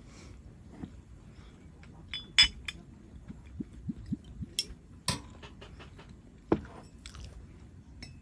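Scattered clinks and knocks of tableware and utensils during a meal, the loudest about two and a half seconds in.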